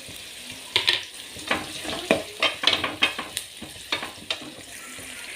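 Sliced onions frying in oil in a kadai, a steady sizzle, while a spoon stirs them, scraping and clicking against the pan in a run of sharp knocks from about a second in until near the end.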